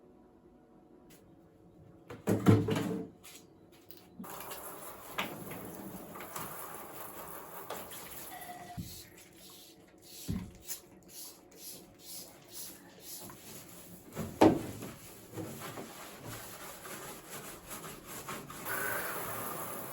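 Household cleaning and handling noises: scattered clicks and rubbing, with two heavier knocks, one about two seconds in and one near the middle.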